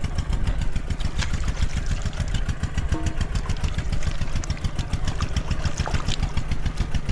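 Small engine running steadily at a low speed, with a rapid, even putter of firing pulses.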